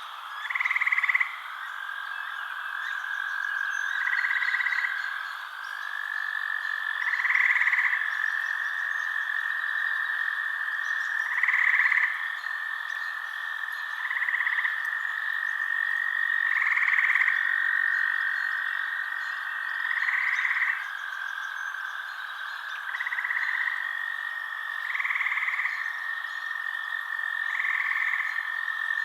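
A night chorus of frogs: a continuous high trill, with pulsed croaking calls of about a second each repeating every two to three seconds over it.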